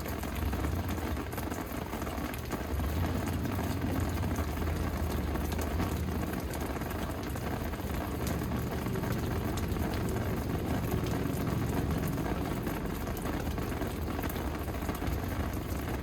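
Steady rain falling, with many separate drops ticking on hard surfaces, over a low rumble that swells and eases.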